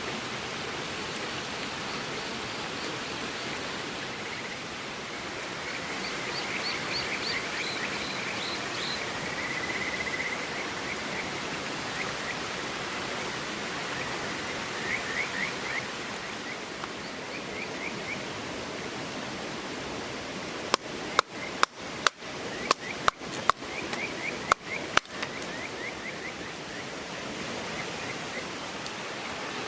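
Steady rush of a flowing river with small birds chirping now and then. About two-thirds of the way in comes a quick run of about ten sharp pops from wood crackling in the campfire.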